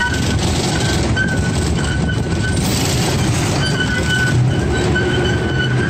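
Miniature amusement-park train running on its track, heard from a riding car: a steady low rumble, with a high-pitched squeal that comes and goes and holds longer in the second half.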